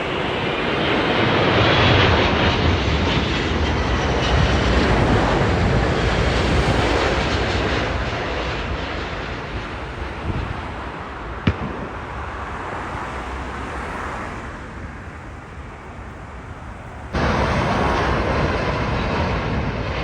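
Jet airliner's engines roaring as it passes low overhead, loudest a couple of seconds in and then slowly fading away. Near the end, a different loud, steady rumble starts abruptly.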